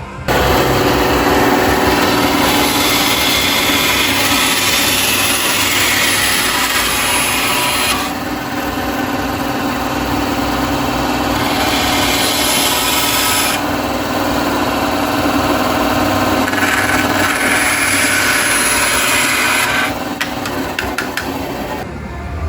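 A power tool grinding or sanding against material, a loud steady rasping that starts abruptly and changes tone a few times.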